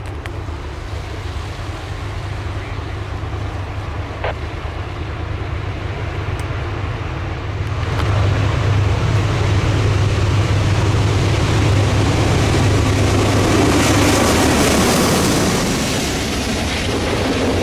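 Diesel freight locomotives, a GE C40-8W leading an EMD SD70ACe, approaching with a deep engine rumble that grows louder about halfway through, joined near the end by a rising rush of wheel and rail noise as they close in.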